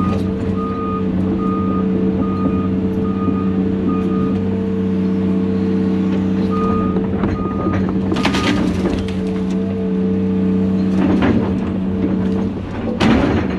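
Heavy diesel equipment engine running steadily, with a motion alarm beeping about twice a second in two spells. Two loud crashing noises come partway through and near the end, typical of brush and timber being broken.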